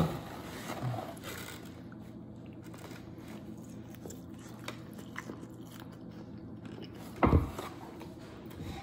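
Close-up biting and chewing of a breaded fried chicken tender: soft crunches and wet mouth sounds. About seven seconds in comes a single loud thump.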